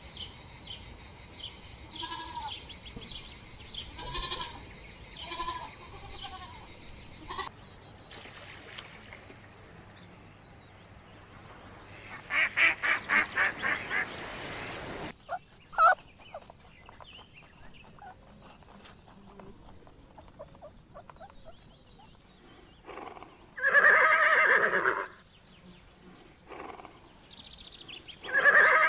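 Farm animals calling in a run of separate clips: soft short calls repeating for the first several seconds, a long quavering call about halfway through, and two loud calls near the end.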